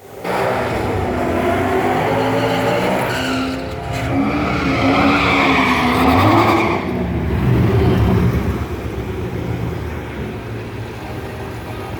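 Drag-racing cars, a twin-turbo Ford Mustang 5.0 and a supercharged Corvette C6, running at full throttle down the strip, their engine note rising and falling through the run. The sound fades over the last few seconds as the cars pull away.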